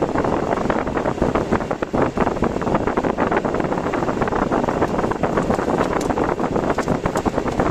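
Typhoon wind buffeting the microphone: a loud, continuous rushing noise full of rapid irregular crackles, with a few sharper ticks near the end.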